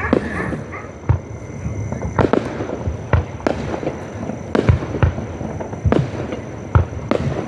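Fireworks display: shells bursting in an irregular string of sharp bangs, roughly one or two a second.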